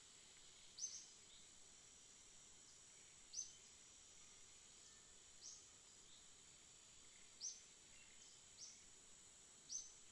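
A bird giving single short, high chirps, six in all, spaced every one to two seconds. Under them runs a steady, faint, high-pitched whine.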